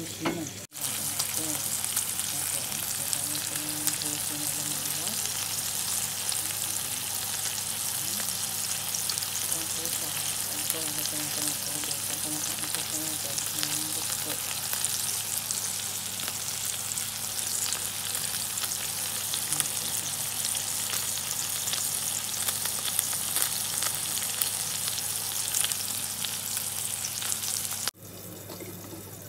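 Hamburger patties sizzling and crackling in hot fat in a frying pan as their juices seep out. The sizzle cuts off suddenly near the end.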